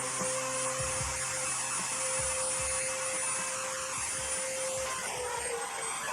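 Small high-speed power tool running steadily with a high whine and a lower hum, its pitch sagging a little about five seconds in.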